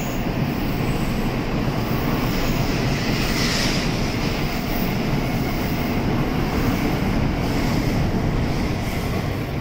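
N700A Shinkansen pulling out of the platform and gathering speed: a steady, even rush of running noise as the cars roll past close by.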